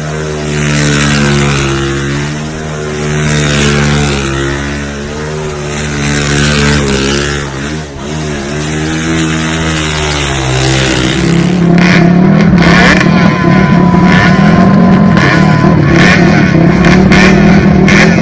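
Off-road vehicle engine running and revving with a wavering pitch; about eleven seconds in it gives way to a louder, rougher engine sound with rattling knocks.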